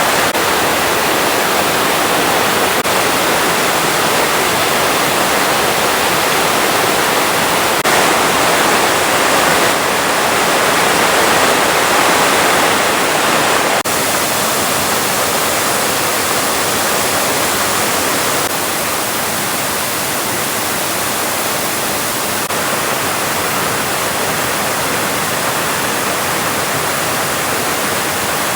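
Steady rushing of falling water from a waterfall, with small changes in loudness now and then.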